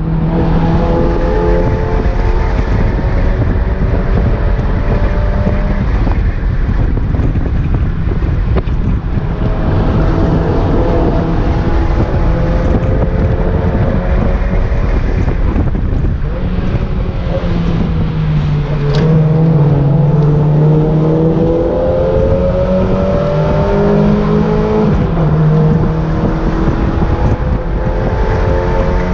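Mazda MX-5 NA's stock 1.6-litre four-cylinder engine, with an aftermarket BBK cat-back exhaust, running hard at track speed, its pitch climbing with the revs and dropping back several times as the driver comes off the throttle and changes gear. Wind rushes and rumbles through the open cockpit.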